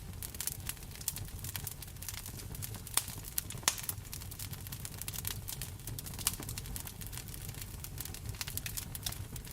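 Wood fire crackling in a fireplace, with rain falling: many small quick pops over a steady hiss and low rumble, and a couple of sharper, louder snaps about three and three and a half seconds in.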